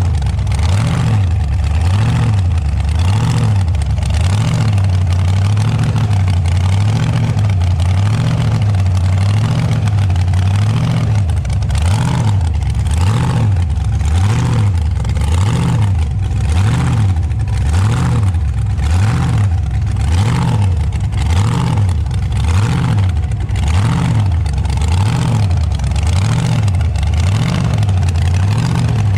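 Car engine running while driving along, loud and steady, with a low rumble that swells and fades about once a second.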